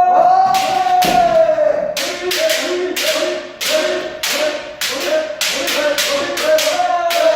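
A long, sustained kendo kiai shout held over a rapid series of sharp bamboo shinai strikes and stamping footfalls, about two hits a second.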